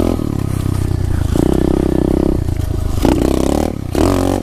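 SSR 125 pit bike's single-cylinder four-stroke engine running under throttle while being ridden, its pitch rising and falling several times as it revs up and eases off.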